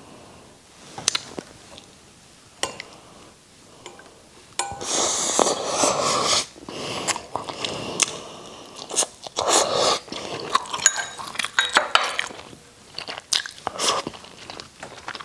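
A person eating a mouthful of steamed rice and braised catfish: chewing with many sharp, wet clicks and smacks. Only a few clicks at first, then much louder and denser from about five seconds in.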